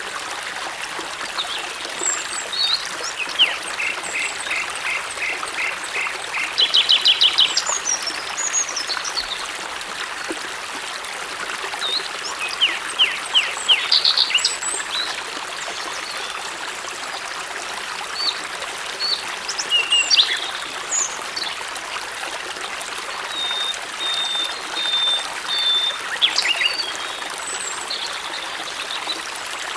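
A small stream trickling steadily, with several songbirds calling over it: a run of quick evenly spaced chirps, rapid trills, and near the end a high note repeated several times.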